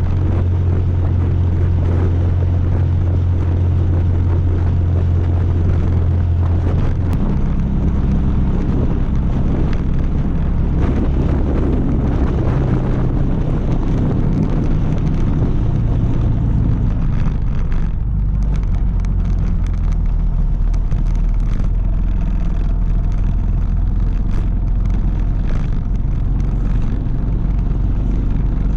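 A vehicle running with a steady low drone. Its pitch shifts in steps about seven seconds in and again around seventeen seconds in.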